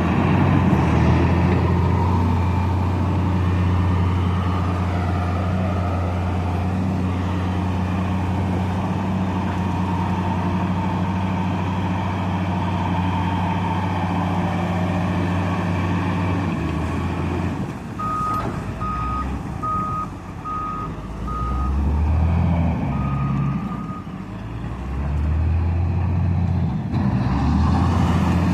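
Diesel engine of a heavy construction machine running steadily; about two-thirds of the way in the engine note drops and rises unevenly while a reversing alarm beeps five times in quick succession, then once more, longer, before the engine settles back to a steady run near the end.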